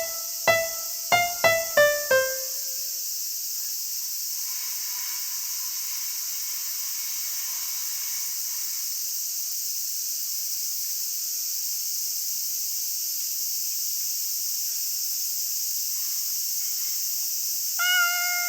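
A quick descending run of piano notes, then a steady high-pitched hiss of insects chirring; one more piano chord sounds near the end.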